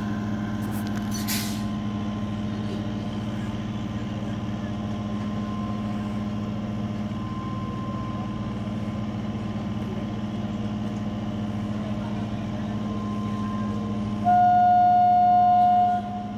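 Steady electrical hum of an EMU local train standing at the platform. About 14 s in, a single loud train horn blast sounds, one steady tone held for nearly two seconds, as a departure signal.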